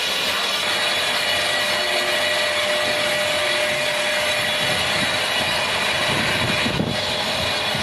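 Heavy machinery running steadily and loudly, with a steady whine running through it and one brief sharp click near the end.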